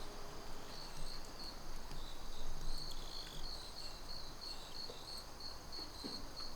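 Crickets chirping: a regular high-pitched chirp repeating about three times a second, with a steady high trill behind it.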